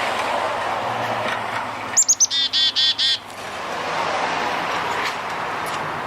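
A baby finch calling: about two seconds in, three quick high chirps falling in pitch, then four longer ringing calls, all within about a second. Under it runs a steady rushing background noise.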